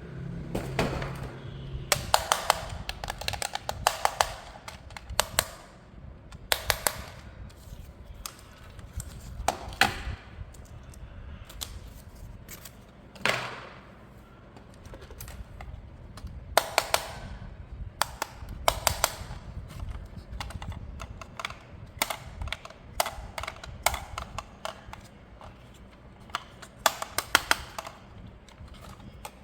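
Hands handling plastic toy parts and packaging: irregular clusters of sharp clicks and taps, with a brief low hum in the first two seconds.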